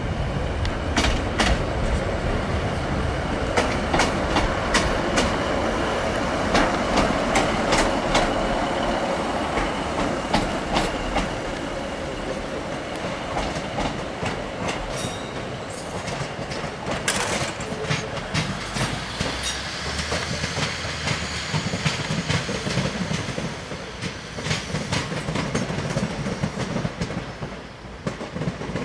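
Diesel multiple unit pulling through at low speed, its diesel engine running under a steady rumble while the wheels clack irregularly over rail joints and points. A faint high wheel squeal comes in about two-thirds of the way through.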